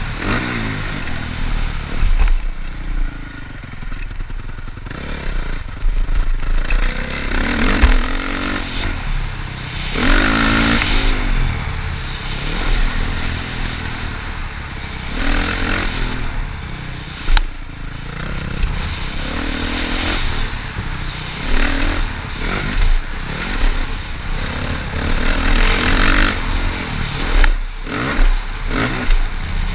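Motocross motorcycle engine revving up and falling back again and again, with a few sharp knocks along the way.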